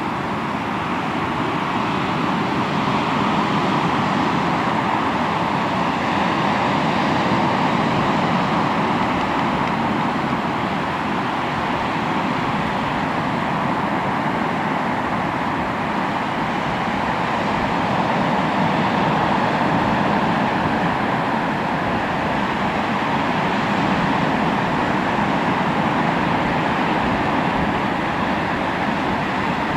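Sea waves washing onto the shore: a continuous surf noise that swells and eases slowly every several seconds.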